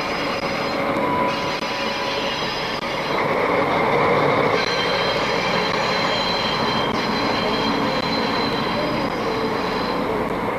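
Train running along the rails with a steady rumble and a high wheel squeal, several thin whining tones that come and go over it.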